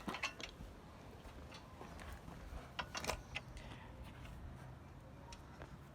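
Faint scattered metallic clicks and clinks of small bolts and washers being handled and fitted while mounting a rack on a dirt bike, the sharpest clink about three seconds in, over a low background rumble.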